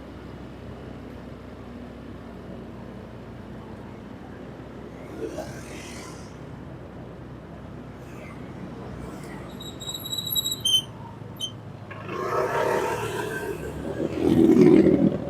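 Vehicle engine running steadily while driving in city traffic, with a short series of high thin beeps and clicks about ten seconds in and a louder swell of traffic noise near the end.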